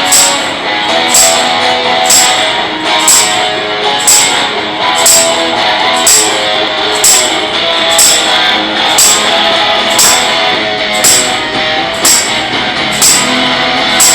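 Blues-garage instrumental: a fuzz electric guitar strumming a repeating riff, with a tambourine striking about twice a second on the beat.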